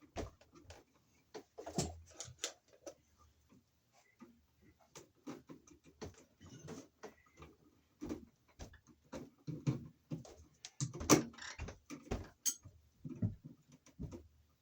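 Irregular clicks, taps and scrapes of electrical wires and hand tools being handled at a junction box as the two black wires are worked on, with one sharper click a little after eleven seconds.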